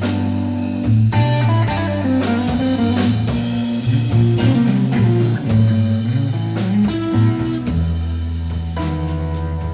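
Live blues band playing: guitar picking a melodic lead line over a steady bass and drum kit.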